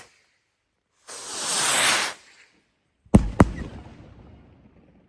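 Firework rockets: a loud rushing hiss of a launch lasting about a second, then two sharp bangs of bursting shells a quarter-second apart, each echoing away. Stretches of dead silence come before and between them.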